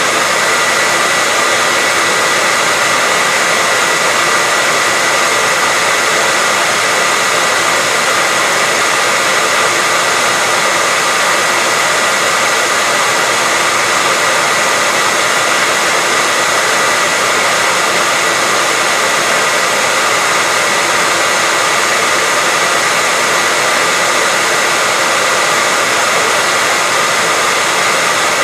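Electric hair dryer running continuously at a steady pitch and level: an even, airy rush with a faint high whine from its motor and fan.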